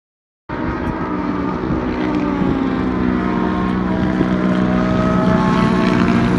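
Aircraft engine droning overhead, growing slowly louder with a gently falling pitch; the sound cuts in suddenly about half a second in.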